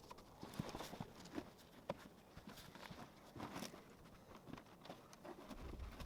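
Faint, irregular knocks, clicks and rustling from working the old floor carpet loose inside a stripped pickup cab.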